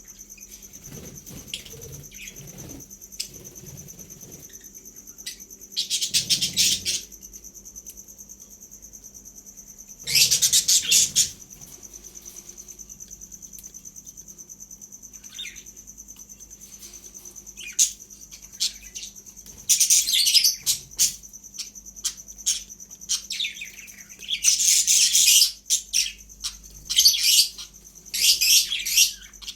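Baby parrot chicks calling in bursts of rapid, high-pitched chirping, a second or so at a time, that come more and more often towards the end. A faint steady high tone runs underneath.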